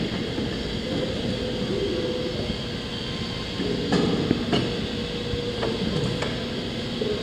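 CNC-40ST pipe bending machine running with a steady motor hum, and a few metallic clunks about four seconds in, with another a couple of seconds later.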